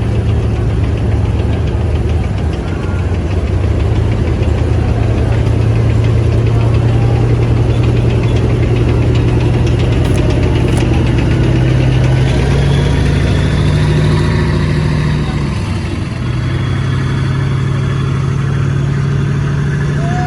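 Heavy engines of armored military vehicles running loudly with a steady low hum. The pitch steps up a little past halfway and dips briefly a few seconds later.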